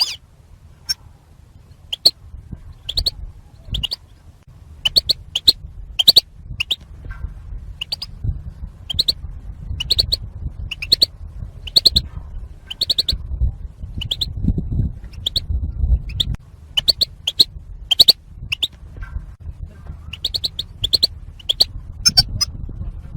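European goldfinch calls, the female 'batbata' calls used to stir a male goldfinch into song: short, sharp chirps repeated throughout, often in quick pairs or triplets, over a low rumble.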